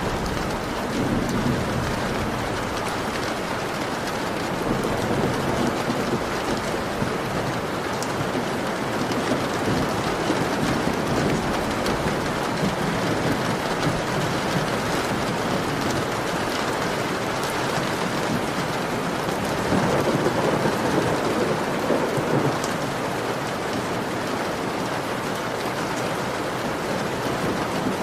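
Heavy rain beating steadily on a window pane. A low swell comes about a second in, and a louder, longer one comes about two-thirds of the way through.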